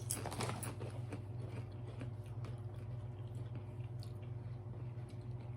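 Faint crunching and chewing of salsa-flavoured tortilla chips, a few scattered crunches over a steady low hum.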